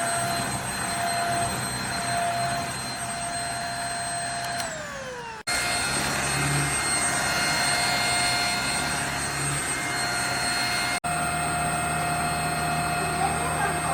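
JPHYLL Ultra-UVC-K16 corded bed vacuum running with a steady high whine over a rushing noise. About four and a half seconds in, its pitch falls as the motor starts to wind down, then the sound cuts off abruptly and the vacuum is running again. There is another brief cut near eleven seconds.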